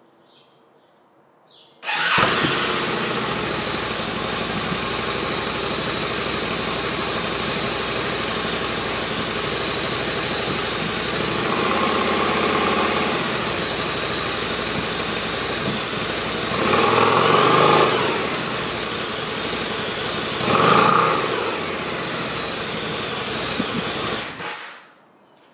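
2013 Harley-Davidson V-Rod Muscle's liquid-cooled V-twin starting about two seconds in and idling, then revved slightly three times, the last two revs sharper, before it cuts off near the end.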